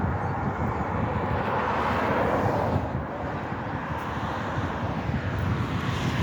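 A vehicle passing, its noise swelling and fading about two seconds in, with another approaching near the end, over steady low wind rumble on the microphone.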